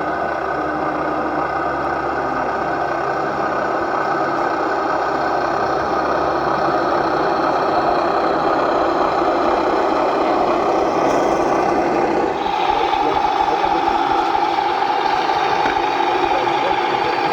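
RC model construction machinery running: a steady engine-like drone with rattle, its tone shifting about twelve seconds in.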